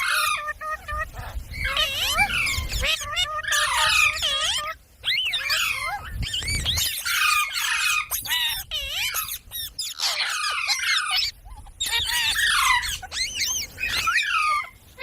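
Parrot chatter: rapid runs of high, wavering chirps and squeaky calls in bursts, broken by brief pauses.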